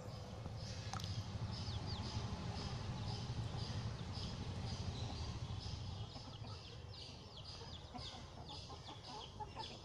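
A bird chirping over and over: short high chirps that fall in pitch, about two or three a second, over a low rumble that fades out about six seconds in.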